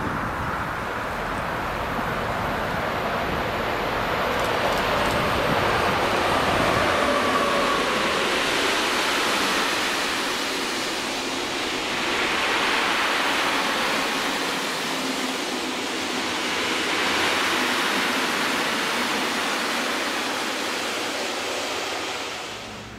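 Freight train of tank wagons rolling past on electrified main-line track: a steady rush of wheels on rails that swells and eases as the wagons go by.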